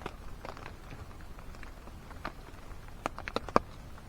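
A few light, sharp taps and clicks over a low steady background, with a quick cluster of them about three seconds in.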